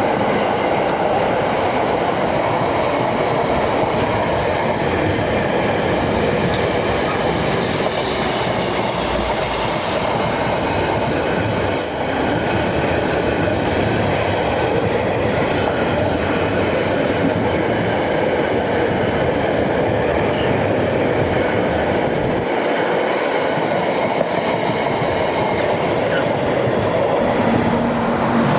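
A train passing on the track: a steady, loud rumble of wheels on rail lasting many seconds, with a few brief high clicks and squeals, easing off at the very end.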